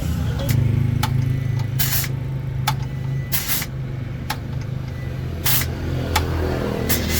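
Truck engine running steadily, with four short hisses of air about every one and a half to two seconds and a few light clicks.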